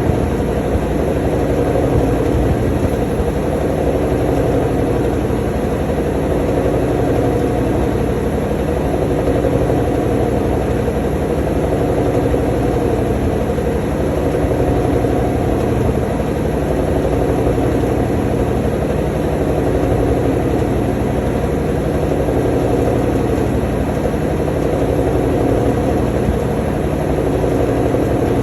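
Washing machine on its spin cycle: the tub spinning at steady speed with a continuous low hum and rumble, while the drain pump runs to pump out the water flung from the tub.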